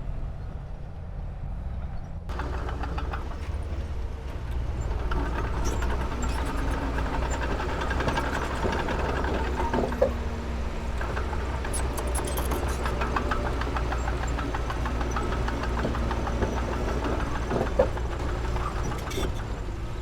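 Heavy diesel earthmoving machinery running steadily, its engine working harder from about two seconds in, with a few sharp knocks or clanks.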